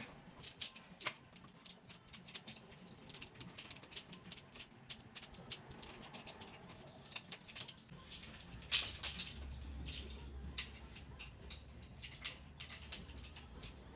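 Scattered clicks, taps and rattles of pet playpen parts being handled and fitted together, with one louder knock about nine seconds in. A low hum comes in about eight seconds in.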